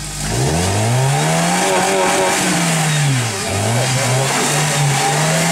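Jeep Cherokee XJ engine revving hard under load as it climbs a steep dirt bank. The revs rise about half a second in and hold high, dip briefly about three seconds in, then rise and hold high again.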